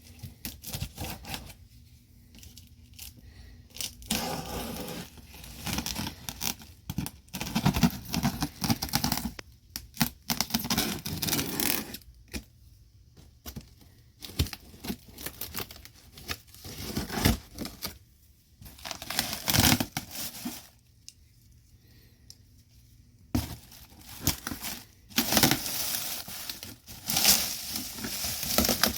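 A parts box and its packing being torn open and handled: irregular bursts of tearing and crinkling, with short pauses between them.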